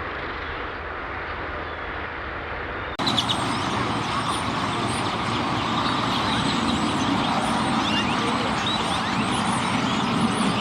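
Massed chatter of a large flock of purple martins over steady road traffic noise. About three seconds in the sound cuts and jumps louder, with the birds' chirps clearer above the traffic.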